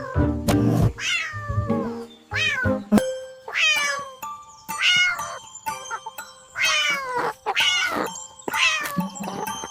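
A cat meowing over and over, about once a second, each meow falling in pitch, with background music under the first few seconds.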